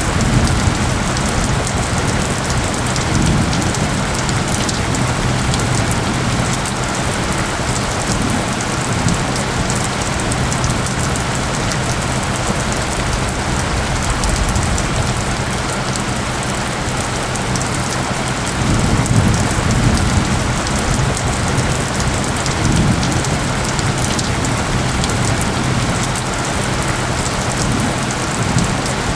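Steady heavy rain pattering, with a few low rumbles swelling and fading, two of them in the last third. Low steady tones hum underneath the rain: the soundscape's mixed-in isochronic tones.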